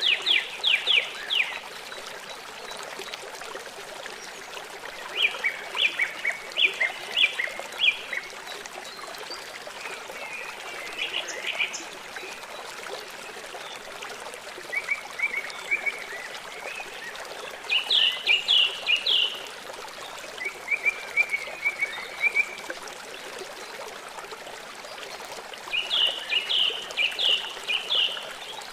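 Songbirds singing in short bursts of quick, repeated chirping notes, a burst every few seconds, over a steady background hiss.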